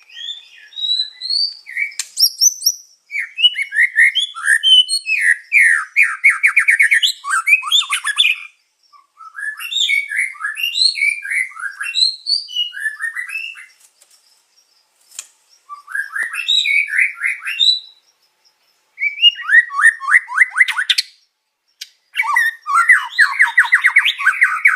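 Songbird song from a masteran track for training white-rumped shamas, which mixes shama song with the songs of canary, cililin, konin and katem. It comes in phrases of a few seconds, made of quick whistles, chirps and fast trills of repeated notes, with short pauses between phrases.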